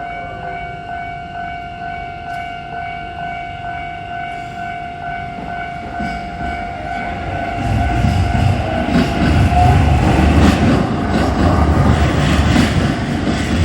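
Level-crossing warning bell ringing in a steady, regularly repeating tone. About eight seconds in, a Keisei Main Line train reaches the crossing and passes with a loud rumble and wheel clatter that drowns out the bell.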